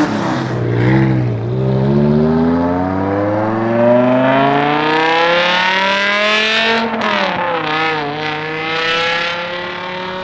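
A performance car's engine accelerating hard, its pitch climbing steadily for about five seconds, then dropping sharply at a gear change about seven seconds in before pulling again and levelling off.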